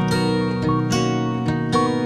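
Background music: acoustic guitar plucking and strumming a melody, with notes struck several times a second.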